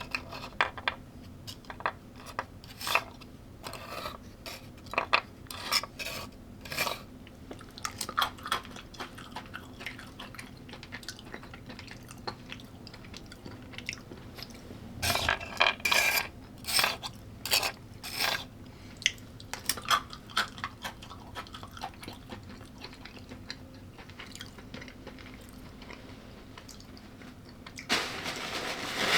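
A person chewing and crunching food close to the microphone, in irregular bites with a louder run of crunches a little past the middle. About a second before the end a steady rushing noise starts.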